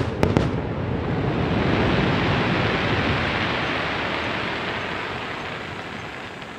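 The last fireworks bangs in the first half second, then a dense, even hiss that swells and slowly fades away.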